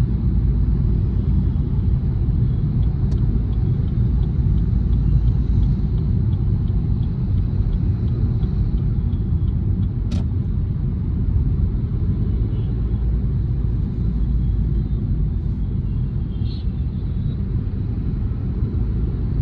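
Steady low rumble of engine and road noise inside a car cruising on a highway, with one short sharp click about ten seconds in.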